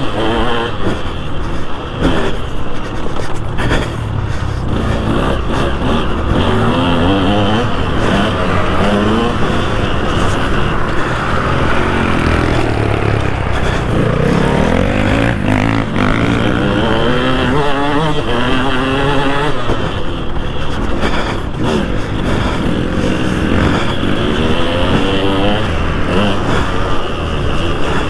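2003 KTM 200 SX single-cylinder two-stroke engine revving hard and backing off again and again, its pitch climbing in repeated rises as it pulls, over steady wind noise with scattered knocks and rattles.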